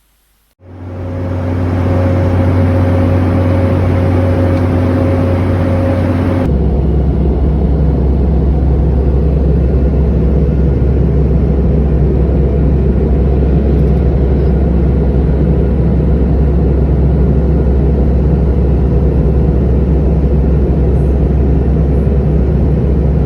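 Boeing 717 cabin noise in flight: a steady roar of engines and rushing air with low hums. About six seconds in it changes abruptly to a steady roar with a deeper hum.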